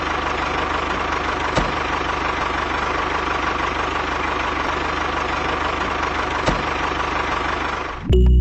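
A small motor or engine running steadily with a constant hum, broken by two short clicks. It cuts off just before the end as music begins.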